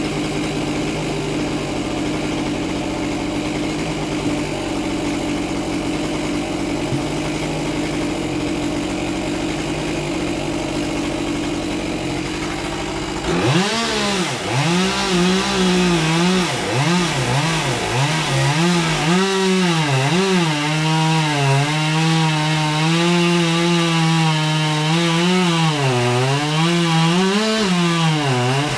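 A steady engine hum, then about halfway through a chainsaw opens up and cuts wood. Its pitch repeatedly sags and recovers as the chain loads up in the cut.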